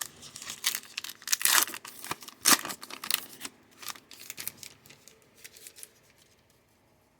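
A trading-card pack's foil wrapper being torn open and crinkled: a run of sharp rips and crackles that thins out and stops about six seconds in.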